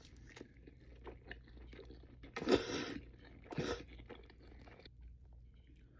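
Close-miked eating: crunchy bites into crispy fried food and wet chewing, with two louder crunches about halfway through.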